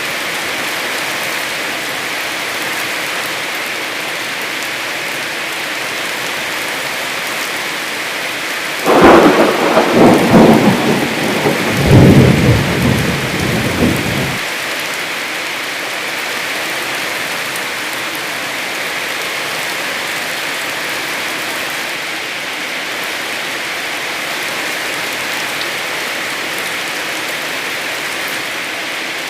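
Heavy rain falling steadily. About nine seconds in, a loud clap of thunder breaks in, rolling in two surges for about five seconds before dying away, leaving the rain.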